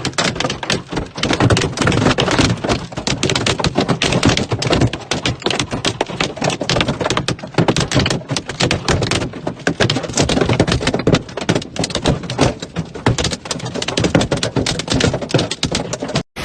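Hailstones striking a hard surface in a dense, irregular clatter of sharp knocks, many every second.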